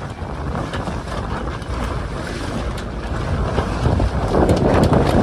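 Wind buffeting the microphone on a sailing catamaran under way, over the rush and splash of water along the hulls, swelling louder about four seconds in.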